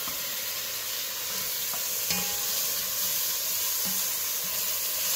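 Diced andouille sausage, garlic and sautéed vegetables sizzling in an enameled Dutch oven while being stirred with a wooden spoon. The steady sizzle grows a little louder after about two seconds, with a light tick or two of the spoon against the pot.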